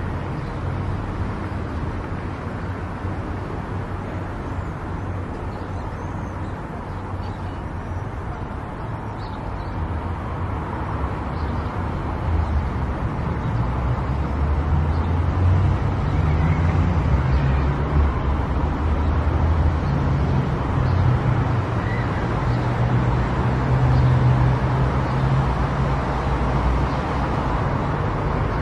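Car driving on a road: steady engine and tyre rumble that grows louder about halfway through.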